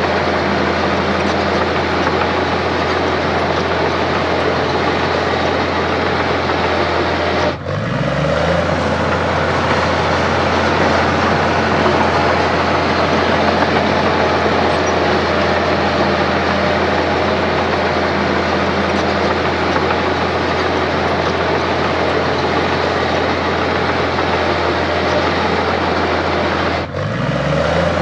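Heavy diesel earthmoving machinery running steadily, with a strong low engine hum. The sound dips briefly twice, about seven seconds in and near the end, and each time a low engine note rises back up.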